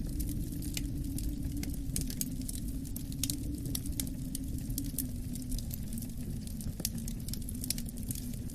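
Wood fire in a fireplace crackling, with frequent irregular sharp pops and snaps, over a steady low rumble of wind.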